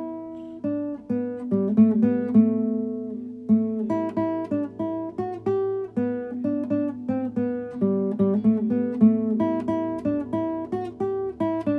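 Solo acoustic guitar playing an Irish-style tune, picked melody notes in a steady rhythm over ringing bass notes.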